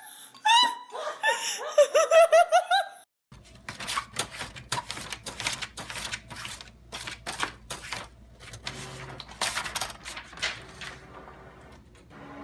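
High-pitched laughter in quick repeated bursts for about three seconds. Then, after an abrupt cut, a low steady hum with scattered irregular clicks and knocks.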